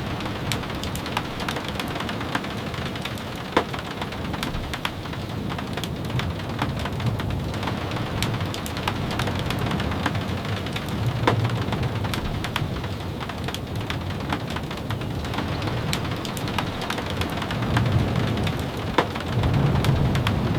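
Steady rain, with scattered sharp taps and clicks and a low rumble that swells a few times, most strongly near the end.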